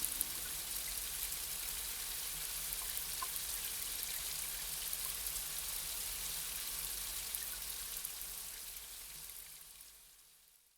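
Steady light rain, an even hiss with a few faint drop ticks, fading out over the last couple of seconds.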